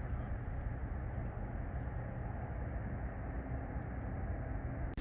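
Steady wind rumble on the microphone and the rolling noise of a bicycle being ridden, with no clear single event.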